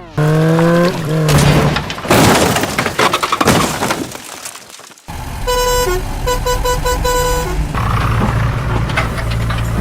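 A vehicle horn sounding a long blast, four quick toots and another long blast, over a steady engine rumble. Before it comes a rising pitched whine, then noisy rumbling that drops out briefly about four seconds in.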